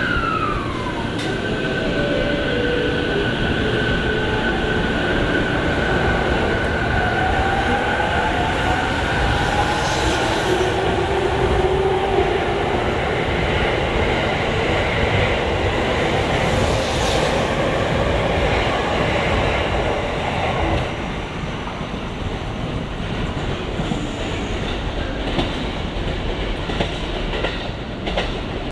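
Electric commuter train of the Musashino Line pulling out of the platform: its motors whine in tones that rise in pitch as it accelerates, over the rumble of wheels on the rails, and the sound eases off after about 20 seconds.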